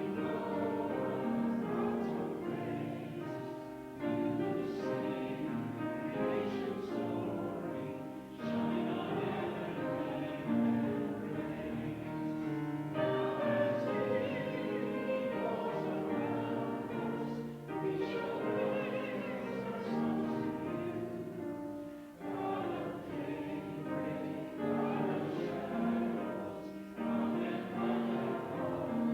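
A congregation singing a hymn with instrumental accompaniment, in phrases with short breaths between them.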